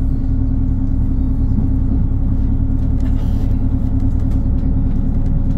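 Steady drone of a diesel multiple unit in motion, heard from inside the carriage: the underfloor diesel engine's low hum mixed with the rumble of wheels on the rails.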